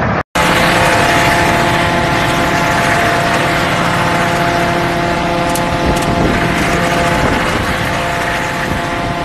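A loud vehicle engine running steadily, with a rushing noise over its drone; it cuts in abruptly just after a brief silence.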